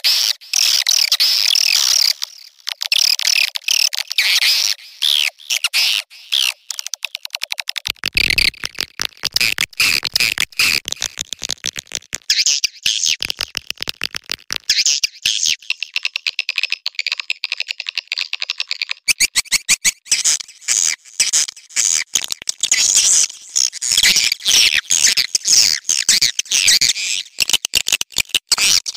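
Swiftlet calls, recorded as a mating and calling track: dense, high twittering chirps mixed with rapid rattling clicks. The mix changes about 8 seconds in and again about 19 seconds in.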